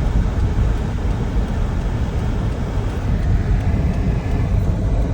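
Steady road noise and engine hum inside a moving car's cabin, a low rumble with no sudden events.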